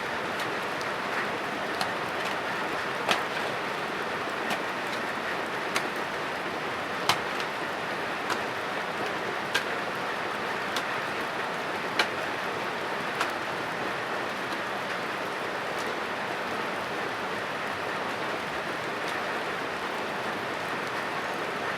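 Steady rain falling, an even hiss with sharp single drip-like ticks every second or so, more of them in the first half.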